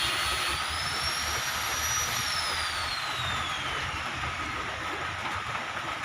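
Abrasive cutting disc on steel: a high whine over a hiss that rises about half a second in as the disc spins up free, then winds down slowly over about three seconds.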